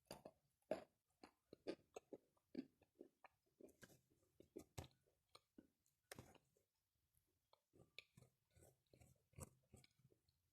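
A person chewing a mouthful of wet Novy Oskol chalk: a quiet, irregular run of short gritty crunches and wet mouth clicks, a few each second.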